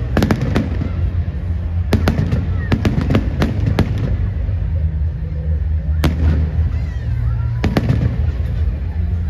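Fireworks display: aerial shells bursting in quick clusters of sharp bangs and crackles, with a lull in the middle, over a steady low rumble.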